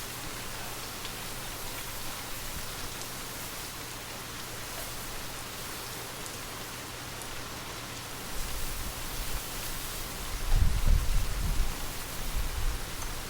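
Steady gentle rain, an even hiss with fine pattering drops. About eight seconds in, low rumbling surges join it and grow louder near the end.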